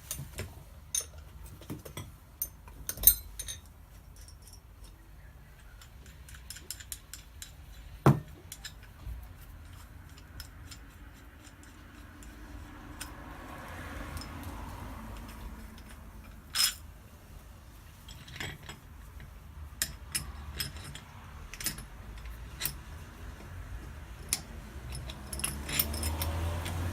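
Small metal parts clinking and being set down: scattered light clicks with sharper knocks about three and eight seconds in.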